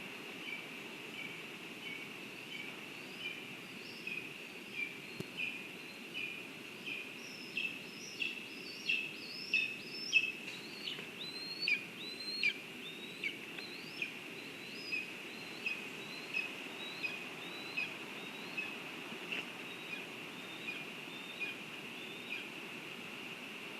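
A bird calling a long run of short, evenly spaced notes, about one and a half a second, growing louder towards the middle and then fading, over a steady outdoor hiss.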